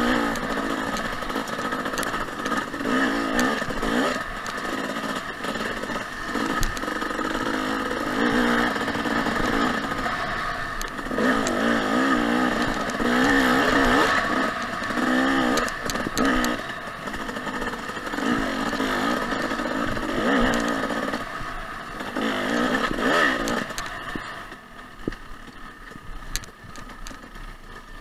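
2014 Husqvarna TC 250 two-stroke dirt bike engine revving up and down again and again while riding, with some clatter. It drops to quieter running about four seconds before the end.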